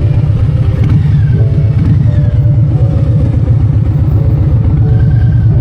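Harley-Davidson motorcycle's V-twin engine running, a loud, low, rapid pulsing that holds steady throughout.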